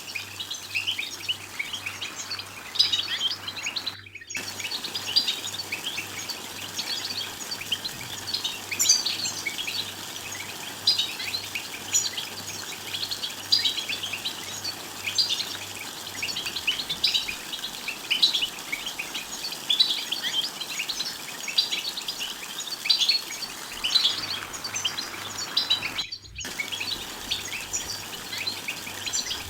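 European goldfinches chattering in a group, a dense stream of short, quick twittering chirps. Twice the chatter drops out for a split second.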